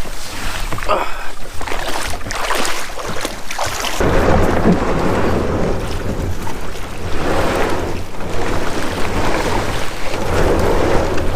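Wind buffeting the microphone: a loud, gusty rumble, changing abruptly about four seconds in.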